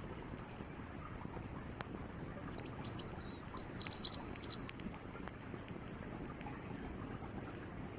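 Campfire crackling with scattered sharp pops of burning wood over the steady rush of a flowing creek. A songbird sings a short twittering phrase of quick high chirps from about two and a half to four and a half seconds in.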